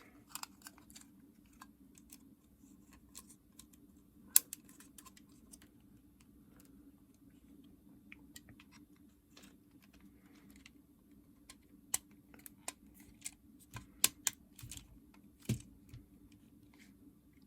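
Scattered, irregular small clicks and taps of plastic parts being handled and fitted during reassembly of a Nintendo DS Lite, with a few sharper snaps about four seconds in and again in the later seconds. A faint steady hum lies underneath.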